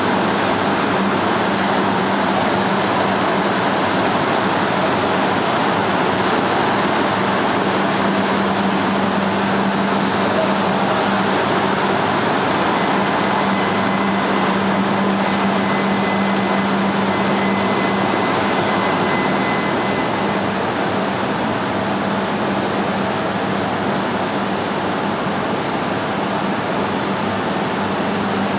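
Steady noise from an E6 and E5 series Shinkansen trainset, with a low hum running through it; it eases slightly about two-thirds of the way through.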